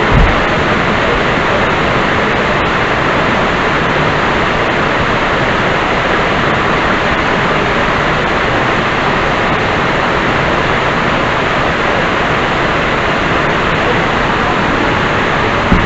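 Waterfall's steady rushing water noise, loud and unchanging, with one brief knock near the end.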